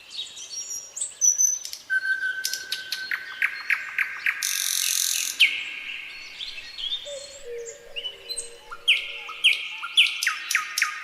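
Several songbirds singing together: rapid trills of quick, repeated falling notes, held whistled notes, and a short buzzy hiss about halfway through.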